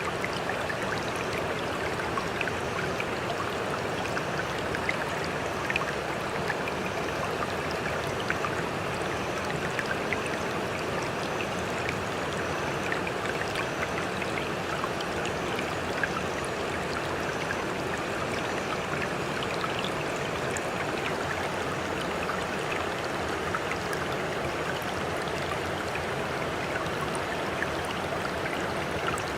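Sea water rushing and fizzing in a steady, even wash without separate wave surges, with small splashes and drips crackling through it.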